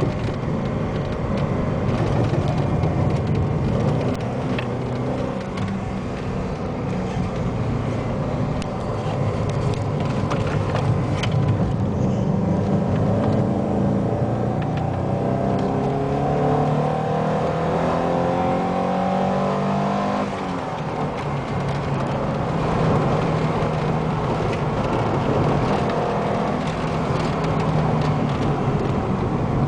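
Alfa Romeo 33 1.7 16v flat-four engine on track, heard from inside the car: running hard, climbing steadily in revs for several seconds, then dropping suddenly about twenty seconds in as the throttle is lifted or a gear is changed, before pulling on again.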